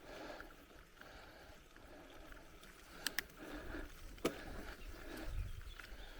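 Bicycle rolling along a forest trail: an uneven rush of tyres on dirt and gravel, with two sharp clicks about halfway through and a louder knock a second later as the bike rattles over bumps. A low rumble builds near the end.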